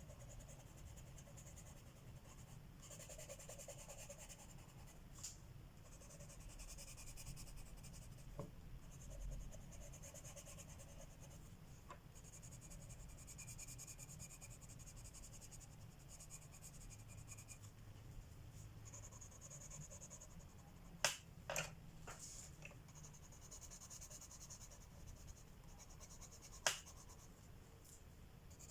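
Colored pencil scratching on paper in short, faint runs of strokes, with a few sharp clicks: three close together about two-thirds of the way through and one more near the end.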